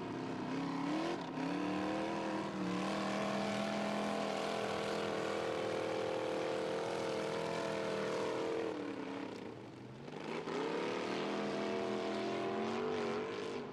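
ProStock 4x4 race truck's engine pulling hard at high revs through slick mud; the revs climb, hold steady for several seconds, drop off briefly about nine seconds in, then climb and hold again.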